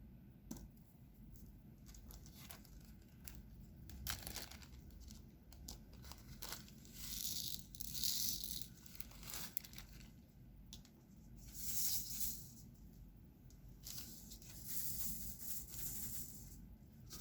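Crinkling, tearing plastic being handled in three longer bursts, with scattered small clicks and taps in between, from diamond-painting supplies being worked.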